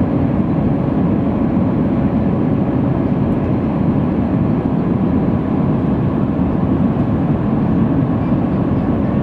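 Steady cabin noise of an Airbus A319 climbing after takeoff: an even, deep rumble of engines and rushing air, with a faint steady hum above it.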